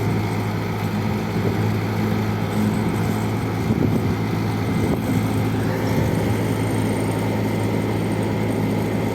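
Skid-steer loader's diesel engine running steadily.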